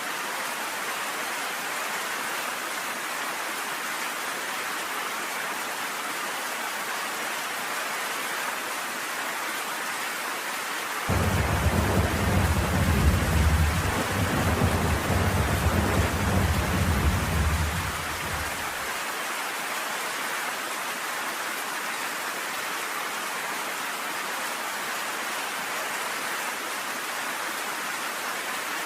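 Steady rain falling in a thunderstorm. About eleven seconds in, a deep rumble of thunder starts suddenly, swells and fades out about seven seconds later.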